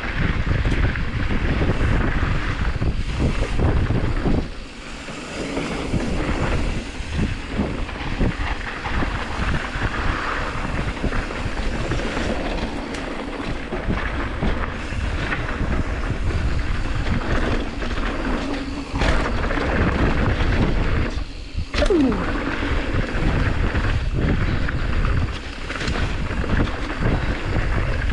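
Mountain bike rolling over a rough, rooty trail: constant rattling and knocking from the bike, with wind buffeting the camera microphone. A short falling squeal about two-thirds of the way through.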